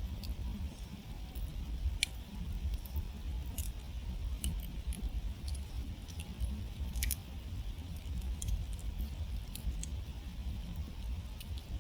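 Wood campfire crackling: sharp snaps and pops at irregular intervals, two louder ones about two and seven seconds in, over a steady low rumble.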